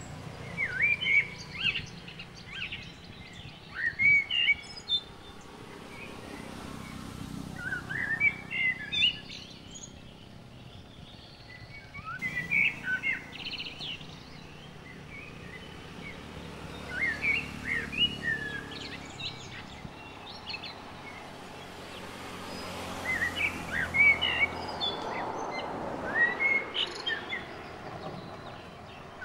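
Birds chirping and calling, with short high chirps coming in clusters every few seconds over a steady low background noise.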